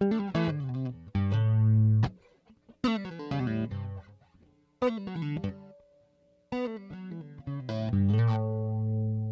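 Electric guitar played through a JHS 3 Series Flanger pedal: picked notes and chords in short phrases, with two brief pauses.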